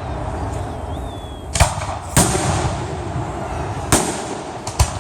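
Aerial fireworks bursting: four sharp bangs, about one and a half, two, four and nearly five seconds in, over a continuous echoing rumble.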